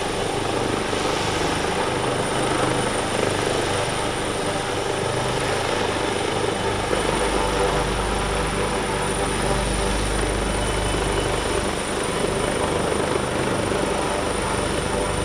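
Helicopter running steadily, a dense unbroken noise with a low rumble that swells in the middle.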